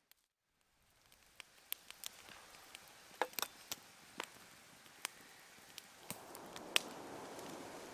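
Wood campfire crackling: after about a second of silence, irregular sharp pops and snaps over a low hiss that grows louder about six seconds in.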